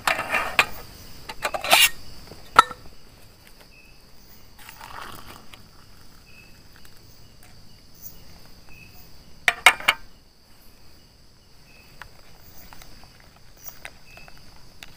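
Crickets chirring steadily in a high, even drone, broken by brief rustles and a few sharp knocks and clicks from handling gear, the loudest about two and a half seconds in and another cluster near the middle.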